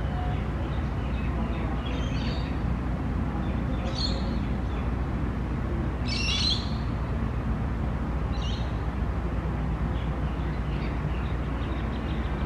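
Bird calls: short high chirps about two, four, six and eight and a half seconds in, the one near six seconds the loudest, over a steady low rumble.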